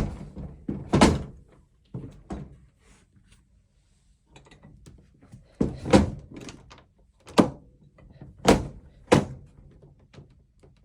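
An old farmhouse door being pushed and knocked against its frame several times, a run of wooden thuds with a quiet pause in the middle; it sticks and will not close.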